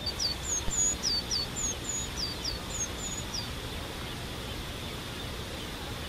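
A bird singing a quick series of about a dozen short, high, falling chirps that stops about halfway through, over a steady high insect drone.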